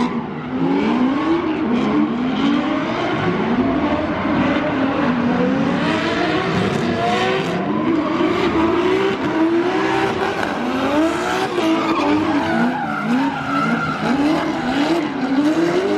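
Drift cars on track, engines revving up and dropping back again and again every second or two as the throttle is worked through the run, over a steady screech of sliding tyres.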